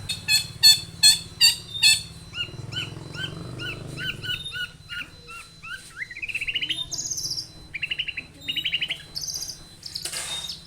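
Long-tailed shrike (cendet) singing a varied, chattering song. It opens with five loud, harsh calls, then gives a string of short repeated notes, followed by fast buzzy trills.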